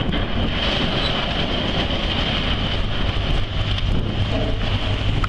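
Steady low rumble and rushing noise, with wind buffeting the microphone.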